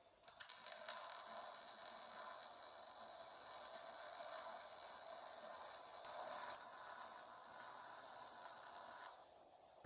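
MIG welder running one continuous bead on steel roll-cage tubing, a steady hissing crackle that starts abruptly and cuts off about nine seconds in.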